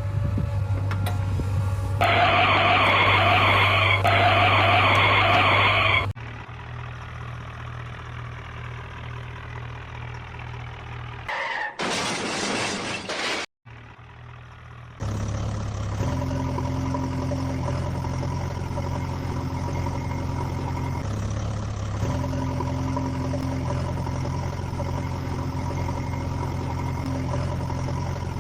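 Vehicle engine running steadily, with a louder, fuller stretch about two seconds in that lasts about four seconds. A short hiss comes about halfway through, then a brief cut-out, and the engine runs on steadily to the end with a slight shift in pitch.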